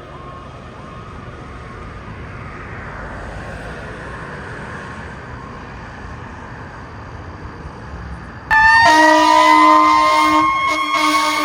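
Road noise from a passing vehicle swells and fades. Then, about eight and a half seconds in, a responding fire truck's air horn and siren start suddenly and loudly: a steady low blast together with a siren wail climbing slowly in pitch.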